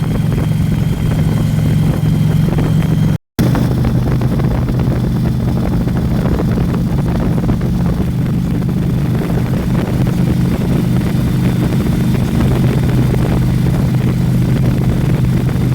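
Motorcycle engine running steadily at cruising speed, with wind and road noise. There is a brief cut about three seconds in.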